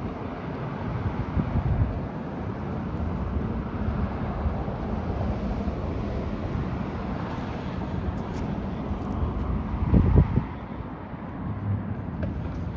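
Vehicle engine running steadily, with wind noise on the microphone and a louder low rumble about ten seconds in.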